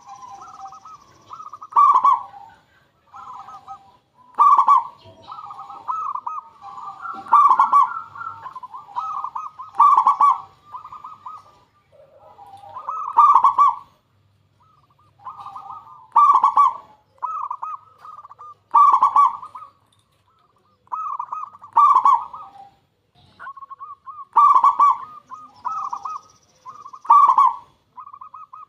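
Zebra dove (perkutut) cooing in a run of repeated rolling phrases, each rising to a loud peak note, about every two to three seconds.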